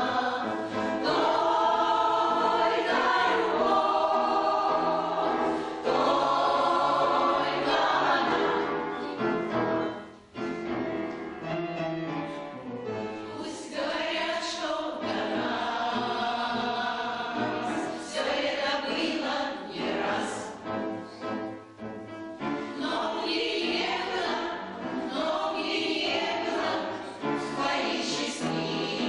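A choir of veteran singers singing a song together, holding long notes. There is a brief break about ten seconds in.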